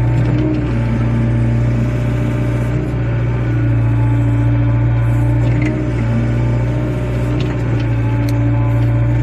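Wheeled excavator's diesel engine running steadily at working speed, with a higher tone that comes and goes as the machine works and a few light clicks in the second half.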